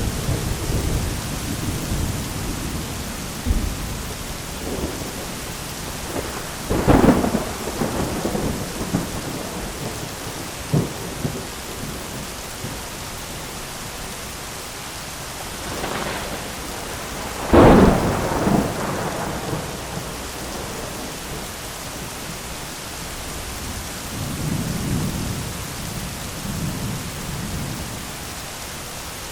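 Heavy rain pattering steadily on an umbrella during a thunderstorm, with thunder: low rumbling at first, two loud cracks about seven and seventeen seconds in, and a softer rumble near the end.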